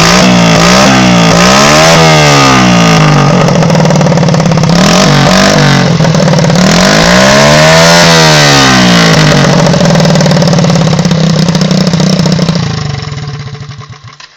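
Quad bike engine running loud through a cut-down sports exhaust, its pitch swinging up and down twice as it is ridden about. It fades away near the end.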